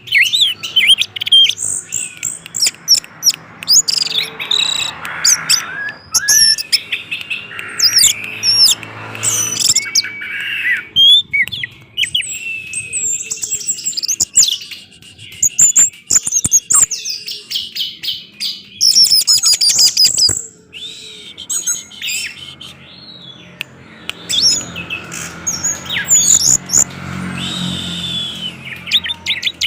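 Orange-headed thrush singing a long, rapid run of varied chirps, whistles and trills, briefly quieter a little after two-thirds of the way through.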